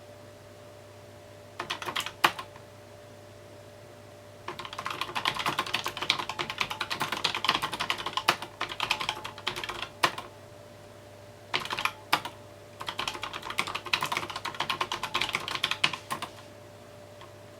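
Typing on a mechanical keyboard: quick runs of keystrokes in several bursts, separated by short pauses.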